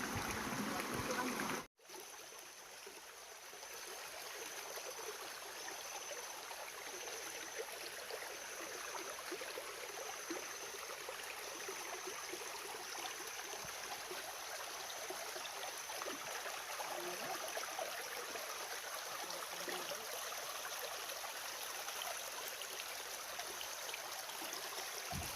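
Steady rush of flowing stream water, with a faint high chirp repeating about once a second; the sound drops out briefly about two seconds in.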